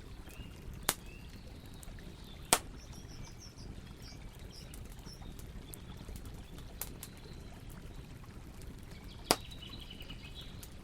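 Campfire burning: wood crackling with many small ticks and three sharp pops, about a second, two and a half seconds and nine seconds in, over a steady low rumble of the flames. Faint bird chirps in the background.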